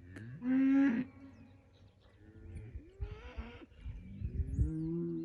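A cow mooing: a short, higher call about half a second in, then a longer, lower moo that rises and holds near the end, with a brief breathy snort between them. The cow is calling as she comes over, expecting grain.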